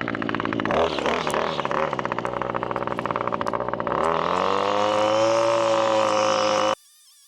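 125cc pit bike engine running with a rapid, even pulsing, then revving up at about four seconds and holding a higher, steady note. It cuts off abruptly near the end.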